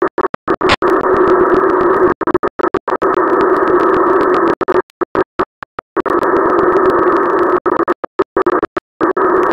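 TV static hiss, a harsh rushing noise with a hum-like low band, broken up by frequent sudden dropouts into silence that make it stutter and glitch.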